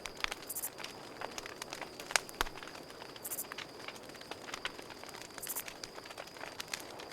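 Campfire crackling, with irregular sharp pops and snaps of burning wood, over a steady high-pitched cricket trill. A brief, very high buzzy insect call comes three times, about every two and a half seconds.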